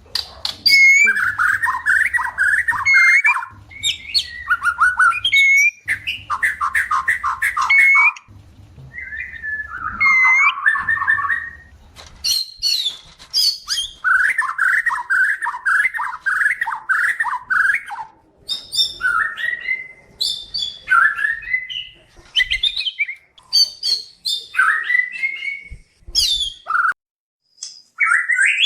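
White-rumped shamas in breeding condition calling: bursts of fast, chattering notes repeated again and again, with short high whistled notes between them. These are the courtship calls of male and female shamas asking to mate.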